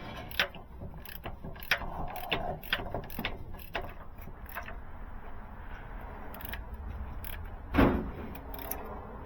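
Ratchet clicking in short, irregular strokes as a diesel engine is barred over by hand to bring it round to the timing pin, with a single louder metallic clunk about eight seconds in.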